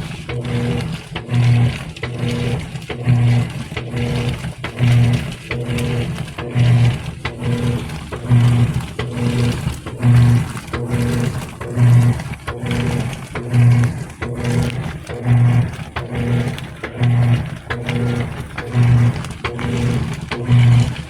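GE Spacemaker top-load washer agitating during the wash: the drive motor hums in pulses as the agitator swings back and forth, with a louder stroke about every second and three-quarters and weaker ones between.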